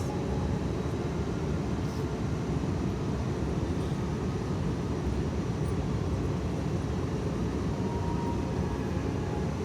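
Steady cabin noise of an Airbus A321neo airliner in flight: an even, low engine and airflow noise heard from inside the passenger cabin.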